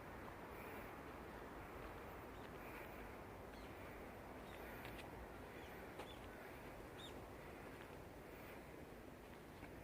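Faint, short bird calls, several scattered through the middle, over a steady background hiss.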